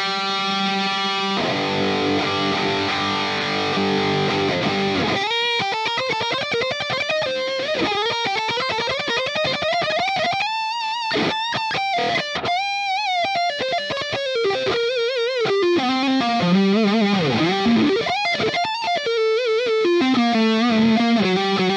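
Electric guitar, a Telecaster with two humbucking pickups: a held chord rings for about five seconds, then a fast single-note lead follows, with string bends and vibrato.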